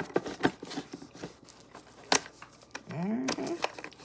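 Electric lunch box parts being handled and fitted together: scattered clicks and rustles, with one sharp click about two seconds in. A brief voice sound near the end.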